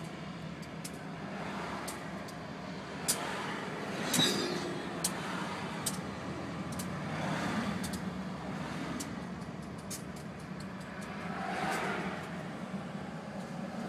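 A vehicle running steadily with a low hum, swells of rolling noise and scattered sharp clicks and rattles.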